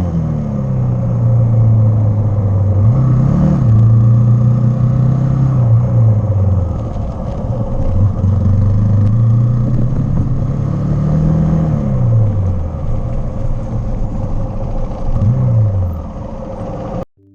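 Hero XPulse 200's single-cylinder engine running on the move, its pitch rising and falling as the throttle is opened and closed, with quick rises about three, eleven and fifteen seconds in. It cuts off abruptly just before the end.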